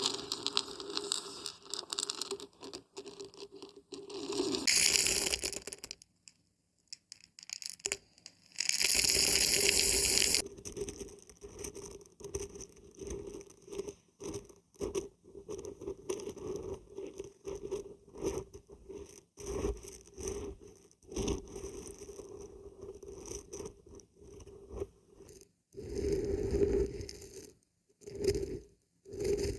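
Dried beans and dried barberries shaken, rattling and scraping in irregular bursts. A longer, louder stretch of shaking comes about nine to ten seconds in, after a short pause.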